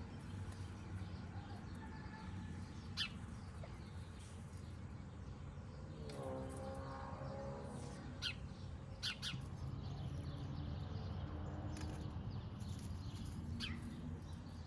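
Small birds giving short, sharp chirps now and then, agitated at kittens climbing in their nesting bush. A longer pitched call lasts about two seconds near the middle, and a steady low rumble runs underneath.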